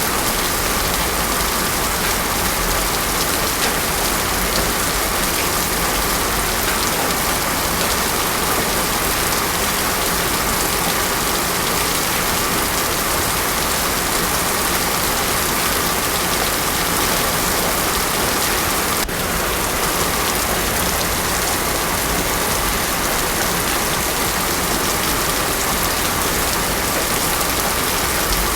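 Heavy rain falling steadily on a road surface, a dense, even hiss with no thunder.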